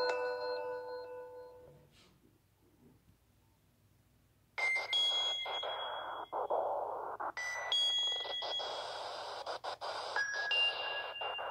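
A chiming electronic melody fades out over the first two seconds. After a short near-silence, a hiss with high, held electronic pings cuts in suddenly about halfway and keeps breaking off and starting again.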